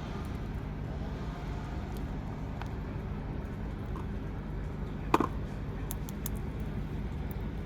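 Steady low background rumble, traffic-like, with a few faint small clicks and one sharper click about five seconds in.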